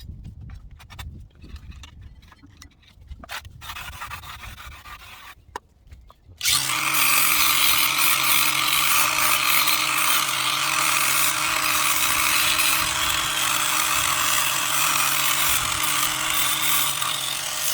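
Light clattering of parts being handled, then about six seconds in a handheld power tool starts and runs steadily and loudly for about eleven seconds.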